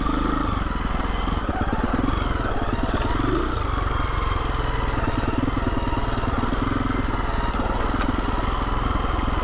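Husqvarna 350 FE's single-cylinder four-stroke engine running steadily while the dirt bike is ridden along a trail.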